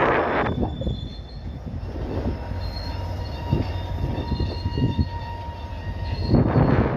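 Train's steel wheels squealing on the rail in thin, steady high tones over a constant low rumble. It grows louder and noisier at the very start and again about six seconds in.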